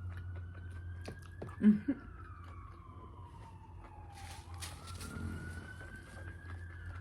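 Emergency-vehicle siren wailing, its pitch rising and falling slowly over several seconds, over a steady low hum. A short, loud low sound breaks in about a second and a half in.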